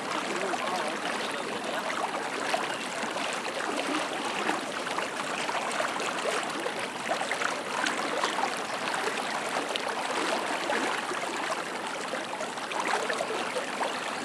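Steady rushing and splashing of fast-flowing water from a river running high in flood.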